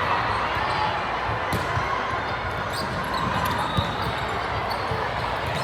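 Basketball game sounds in a gym: a ball bouncing on the court among scattered short thumps and brief squeaks over a steady murmur of voices.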